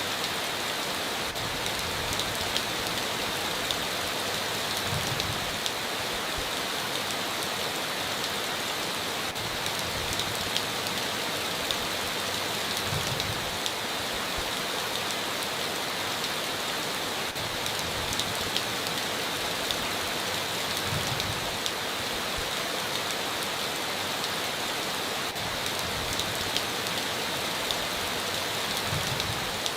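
Steady heavy rain, with individual louder drops ticking through it.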